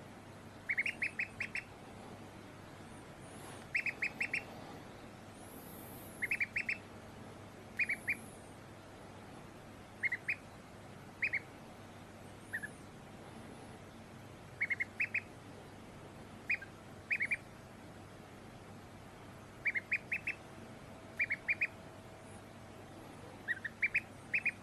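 Duck quacking: short calls in quick runs of two to four, a run every second or two.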